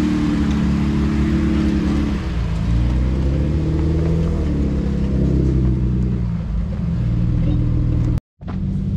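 Jeep engine running under varying throttle while crawling on an off-road trail, its pitch rising and falling as it is given and eased off gas. The sound drops out completely for a moment near the end.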